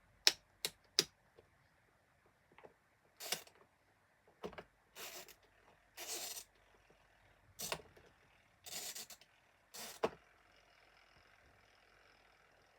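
Three sharp clicks, then a series of short scraping and knocking handling noises on a plastic box fan; about ten seconds in, a faint steady hum of the fan's electric motor sets in and keeps running.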